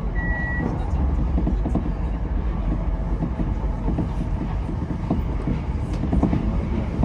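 Tokyo Metro 10000 series electric train running along the line, a steady low rumble from the wheels and car with faint irregular rail knocks. A short high beep sounds just after the start.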